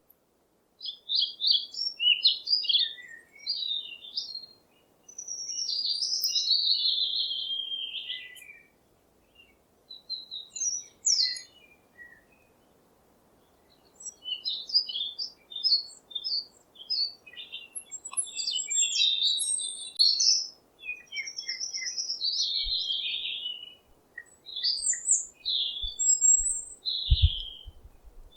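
A parrot chirping and calling: quick runs of short, high chirps and a few longer falling calls, broken by pauses. There are a few low knocks near the end.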